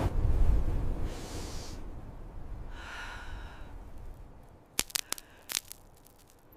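Blizzard wind gusting: a deep, loud whoosh that slowly dies away, then fainter whooshing swells, with a few sharp cracks about five seconds in.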